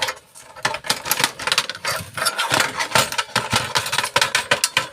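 Rapid clicking and snapping of a microwave door's clips as it is pried apart with a tool, working around the edge.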